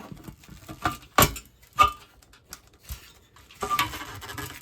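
Hands working on a monitor's circuit board and power connector: a few sharp plastic and metal clicks and knocks, the two loudest just after a second in, then handling clatter near the end.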